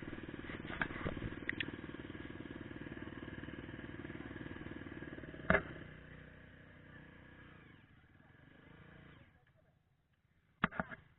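Trail motorcycle engine running steadily, with a sharp knock about five and a half seconds in. The engine sound then fades away over a few seconds, leaving near quiet broken by a couple of sharp clicks near the end.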